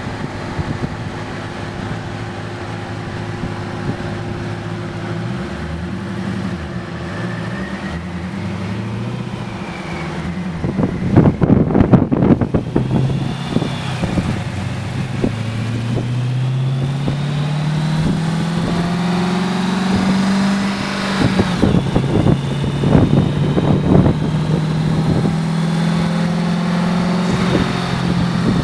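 Twin-turbo Hemi V8 in a Dodge Challenger on a chassis dyno. It idles and blips, then makes a long pull with the engine pitch climbing steadily for several seconds and a high turbo whistle rising above it. It then eases back to a steadier speed, with sharp pops and cracks scattered through the louder stretches.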